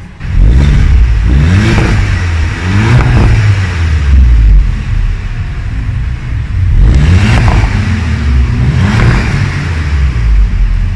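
Seat León Cupra 290's turbocharged 2.0-litre four-cylinder engine revved through its exhaust while standing still: a loud run of quick rising revs in two groups, each dropping back between them.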